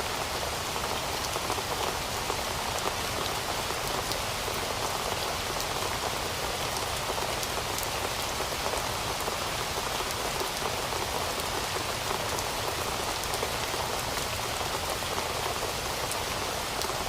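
Steady rain falling on a surface, an even hiss dotted with many individual drop ticks.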